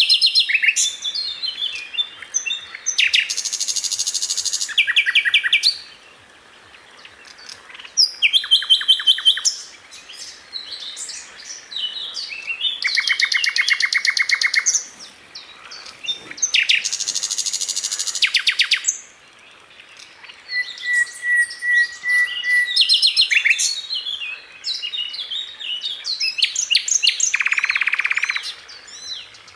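Sikatan londo flycatcher singing: bursts of very rapid repeated notes, high-pitched trills, each a second or two long, broken by short pauses and a few held whistled notes.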